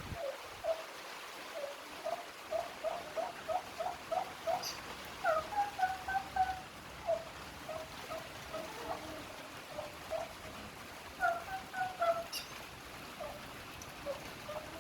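A fowl calling in a long series of short, repeated notes, about three a second for a couple of seconds early in the run, then more scattered calls with a few higher two-part notes.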